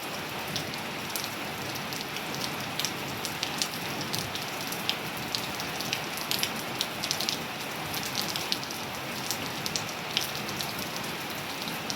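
Steady rain falling, a constant hiss with many individual drops tapping sharply and irregularly on nearby surfaces.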